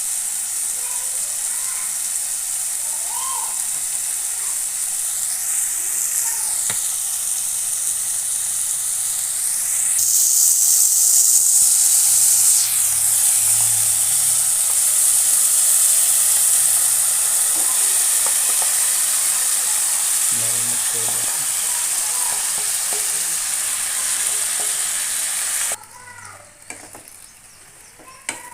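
Raw chicken pieces sizzling in hot oil with a fried onion and tomato masala as they go into the pan. The sizzling grows louder about ten seconds in and cuts off suddenly near the end.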